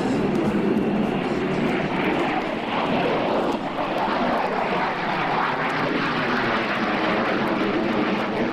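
Aircraft engine noise: a loud, steady, dense rushing sound with no clear pitch.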